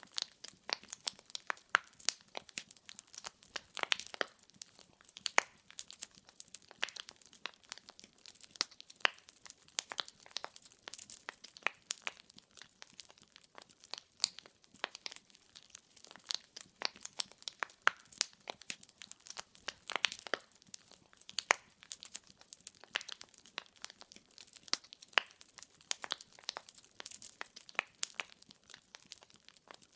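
Firewood logs burning in a fireplace, crackling and popping in many irregular sharp snaps over a faint hiss.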